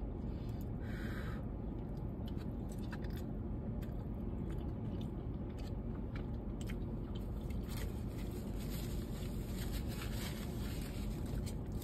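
Close-miked chewing of a mouthful of kimchi fries with spicy pork: many small crunches and wet mouth clicks. Underneath is a steady low background rumble.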